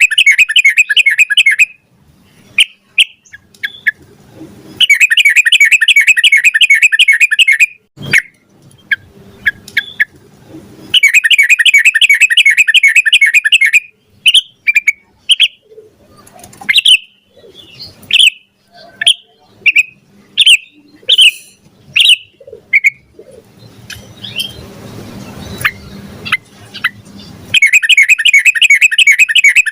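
Yellow-vented bulbul (trucukan) singing. Long, fast, rattling trills of about three seconds come near the start, about 5 s and 11 s in, and again near the end. Between them are scattered short chirps, mostly in the middle.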